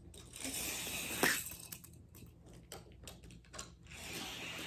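Rustling and light clicking of small objects being handled, with a sharper click a little over a second in and a run of quick clicks in the middle.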